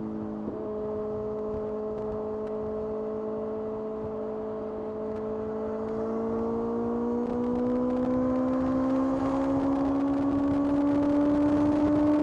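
Kawasaki ZX-6R's inline-four engine under way, holding steady revs with a quick step in pitch about half a second in, then rising steadily in pitch and getting louder from about six seconds in as the bike accelerates.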